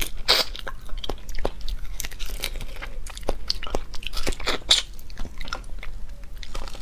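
Close-miked chewing of raw peeled prince shrimp: a run of irregular short clicks and mouth smacks as she bites and chews.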